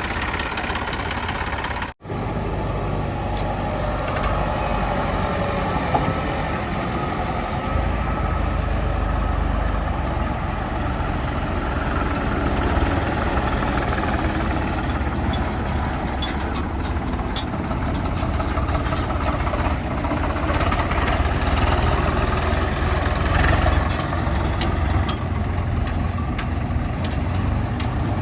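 Heavy diesel engines of earthmoving and haulage machinery running steadily with a deep rumble, with scattered clicks and knocks in the second half. A brief cut in the sound about two seconds in.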